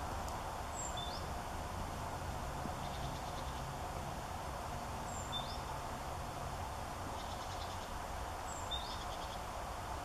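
A small songbird's short high call, three times about four seconds apart, over a steady low background rumble.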